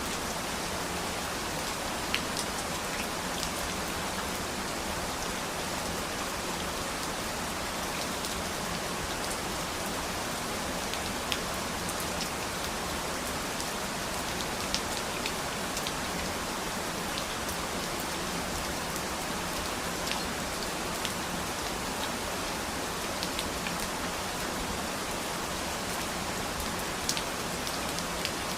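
Steady rain, falling as an even hiss with sharp taps of individual drops scattered through it.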